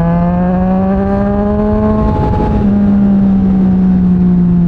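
2023 Yamaha MT-09 SP's three-cylinder engine running through an aftermarket Mivv X-M50 exhaust under way. The pitch rises slowly for about two seconds, breaks briefly, then holds steady, with wind rumble on the microphone.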